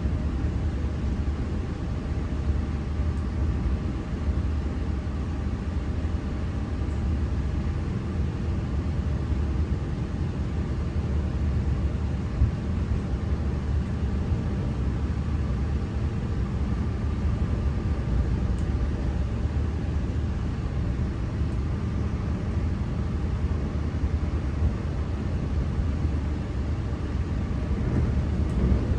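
V set electric intercity train running, a steady low rumble with faint steady humming tones.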